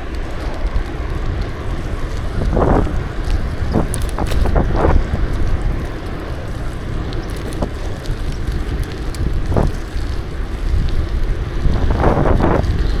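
Wind buffeting the microphone of a camera on a moving bicycle, a steady low rumble, with a few short rattles now and then.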